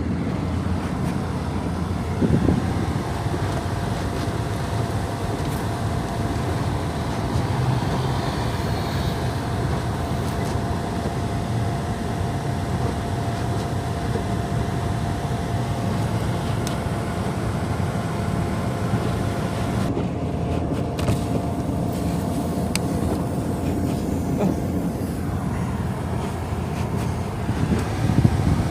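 Steady low rumble of a running vehicle, with a thin steady hum coming in a few seconds in.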